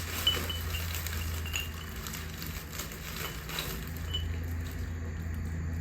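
Terracotta wind chime's clay pieces clinking lightly against each other a few times as it is handled.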